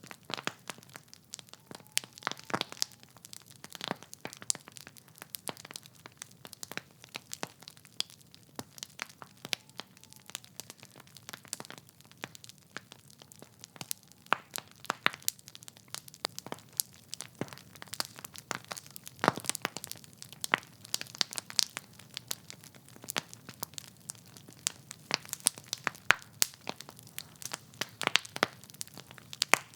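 Wood fire in a fireplace crackling, with many irregular sharp pops and snaps from the burning logs over a faint low hiss.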